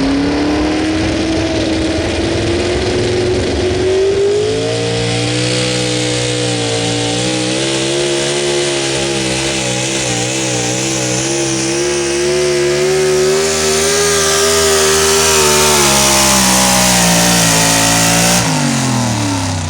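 Super stock 4x4 pulling truck's engine running hard at full throttle: its pitch climbs over the first few seconds, holds high with some wavering, then falls off sharply near the end.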